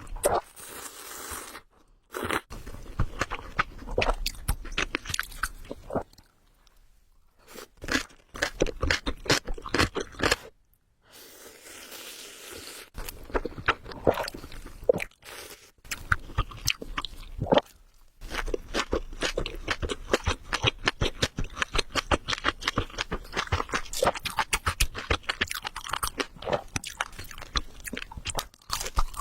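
Close-miked mouth sounds of a person eating spicy ramen: chewing with dense runs of quick, crunchy clicks, broken by two short lulls in the first half.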